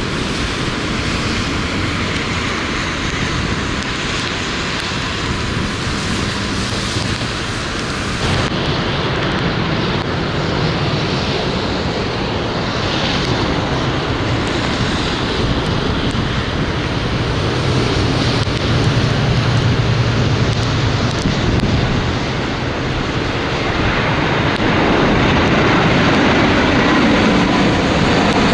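Jet airliner engines on approach, mixed with strong wind buffeting the microphone; the engine noise grows louder with a high whine near the end.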